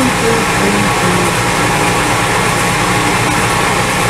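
Milling machine running steadily while drilling clearance holes in the metal door-stop part.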